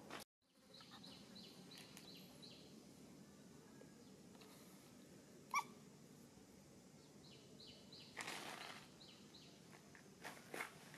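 Near silence, with two runs of faint, short, high chirps, about three a second, from a bird. There is a single brief squeak about halfway through and a short rustle near the end.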